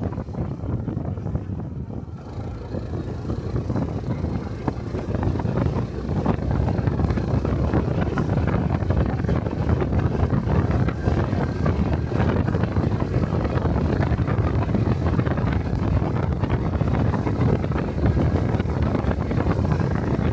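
Honda 125 cc Cub motorcycle's single-cylinder engine running while riding, with wind buffeting the microphone. Quieter for the first few seconds, then louder and steady from about six seconds in.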